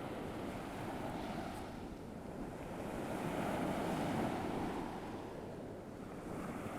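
Ocean surf sound effect: a steady wash of waves that swells slowly to a peak about two-thirds of the way through and eases off again.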